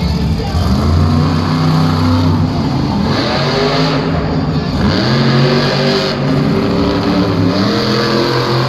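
Monster truck engine revving hard, its pitch repeatedly climbing and dropping back as the throttle is worked.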